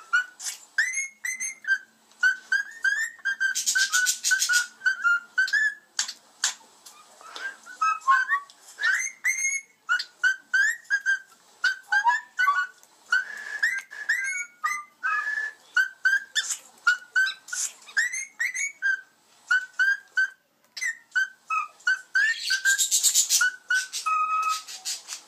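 Cockatiels whistling a song: a long string of short, clear notes that swoop up and down, repeating a tune. Harsh, noisy chatter breaks in twice, about four seconds in and again near the end.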